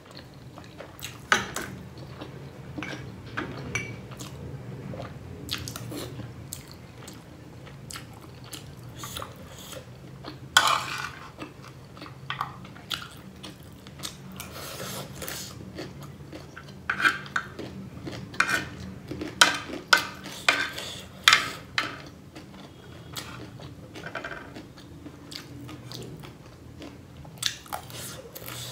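Crunching and chewing of piro chatpatey, the spicy Nepali puffed-rice and noodle snack, close to the microphone, with sharp irregular crunches.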